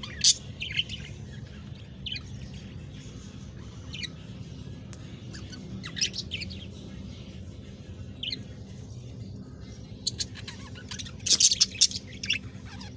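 Budgerigars chirping in short scattered bursts, busiest and loudest in a rapid cluster near the end, over a low steady hum.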